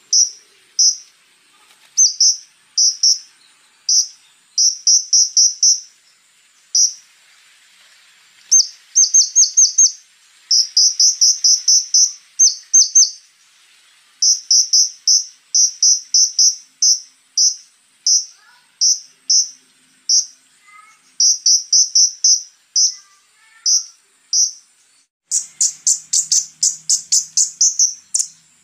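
Konin, a red-backed flowerpecker, singing: sharp, high chips delivered in quick runs of several notes with short gaps, over a steady high insect-like whine. Near the end the whine stops and the bird gives a louder, denser rattling run of notes.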